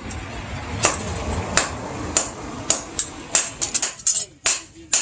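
Blacksmith's hammer striking bearing steel on an anvil: about ten ringing metal-on-metal blows, spaced out at first and coming faster after the middle. A low rumble sits under the first half.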